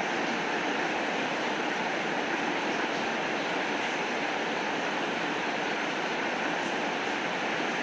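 Steady rainfall, an even hiss of rain with faint scattered ticks of drops.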